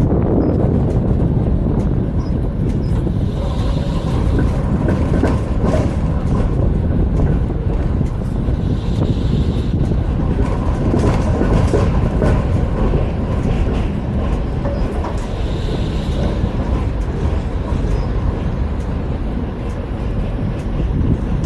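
Vario LF2R.E low-floor tram running on track, heard from inside the car: a steady rumble of wheels on rails with scattered clicks.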